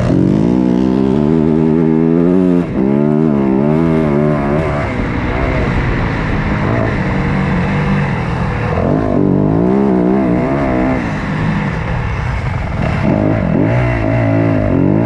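Motocross dirt bike engines racing, revving hard with the pitch swinging up and down again and again as the throttle is worked and gears change.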